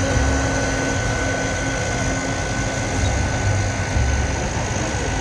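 Steady engine drone of a car ferry under way: a low pulsing rumble with a constant hum and a thin high whine above it.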